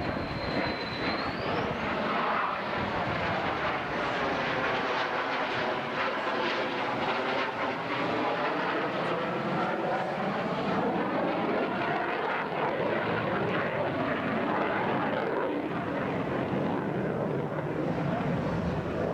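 Aircraft engines on a flyby: a loud, steady roar with a sweeping, phasing sound as the aircraft passes.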